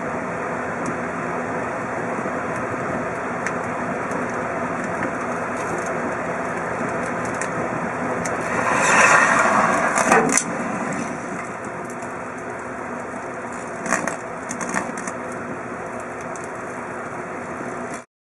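Kenmore microwave oven running steadily with an iPhone 4S inside, with crackles and pops from the phone as it is cooked, a louder burst of noise about nine seconds in, and sharp snaps around two-thirds of the way through. The sound cuts off suddenly near the end.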